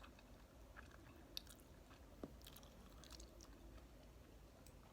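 Faint chewing with a couple of small sharp clicks or mouth smacks, close to the microphone, over a low room hum.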